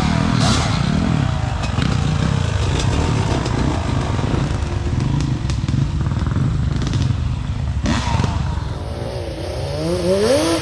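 Off-road vehicle engine running on a trail with some clatter, its pitch wavering. Near the end it revs up several times in rising sweeps.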